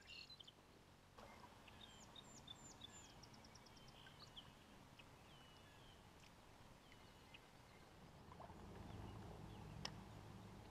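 Faint birdsong: a few quick descending whistled notes, then a short rapid trill and scattered chirps, over a low steady rumble. A single sharp click near the end.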